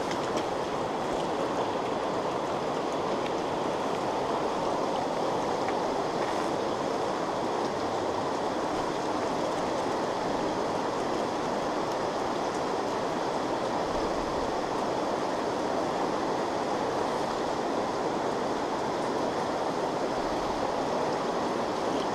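Steady rushing of a small stream's running water, even and unbroken.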